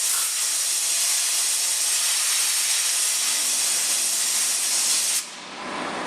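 Compressed air hissing loudly and steadily, cutting off suddenly about five seconds in, after which a quieter steady running sound remains.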